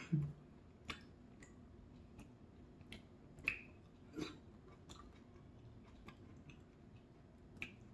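Soft eating sounds from a person eating noodle soup: quiet chewing and mouth noises with scattered small clicks, and a few brief louder mouth sounds about halfway through and near the end.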